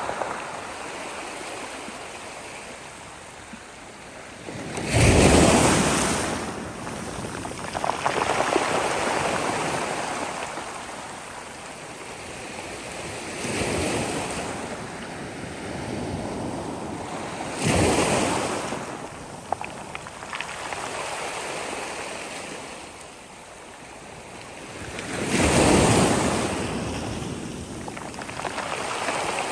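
Sea waves breaking on a shore: surf surging up and washing back every few seconds, with several louder breaks among gentler ones.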